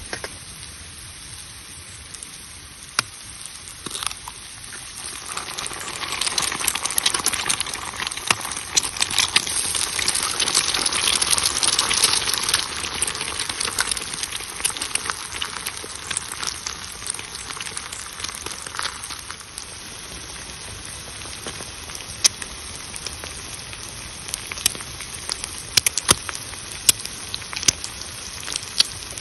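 Wood fire crackling, sharp cracks over a steady hiss that grows louder about six seconds in and eases off after about thirteen seconds.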